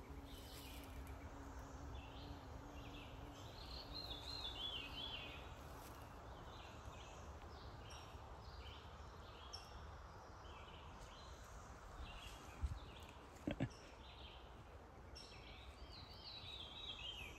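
Quiet woodland ambience: songbirds singing in short, repeated phrases of chirps over a faint low rumble, with a couple of brief knocks about two thirds of the way through.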